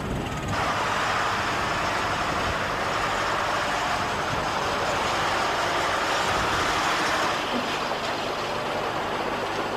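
Heavy rally truck driving with its engine running steadily. The sound swells about half a second in and eases slightly after about seven seconds.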